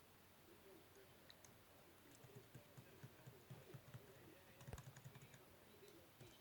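Near silence with faint, irregular soft taps and clicks, thickest in the middle of the stretch.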